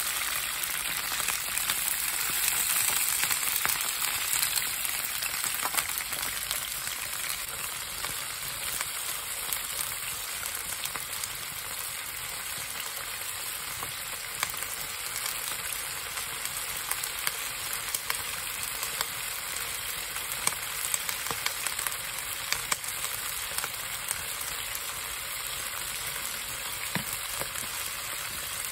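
Green and red peppers frying in oil in a cast-iron skillet: a steady sizzling hiss with scattered small pops, a little louder in the first few seconds.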